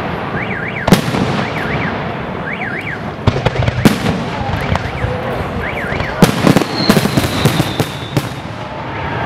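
Aerial fireworks salute: shells bursting overhead in a series of sharp bangs, with a quick volley of about half a dozen bangs some six to eight seconds in.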